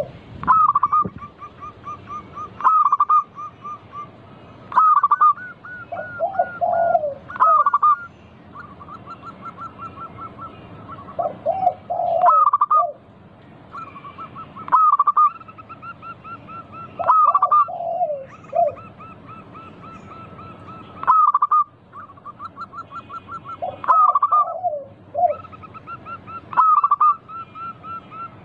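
Zebra doves (perkutut) cooing, more than one bird, in repeated phrases every two to three seconds, with runs of quick soft notes between the louder phrases.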